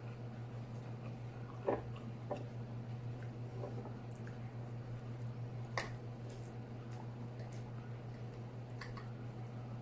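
Close-miked chewing and wet mouth sounds of someone eating, with a few short sharp clicks. A steady low hum runs underneath.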